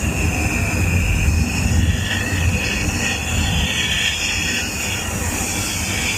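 A studio tour tram running, with a steady low rumble and a thin high whine over it.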